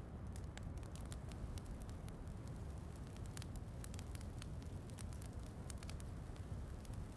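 Wood fire crackling in a fireplace, with many small sharp pops scattered irregularly over a steady low rumble and a soft hiss of rain.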